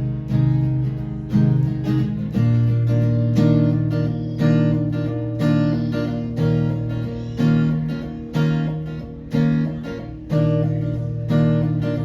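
Acoustic guitar strumming chords in an instrumental passage between sung verses, with a strong strum about once a second and the chord changing every couple of seconds.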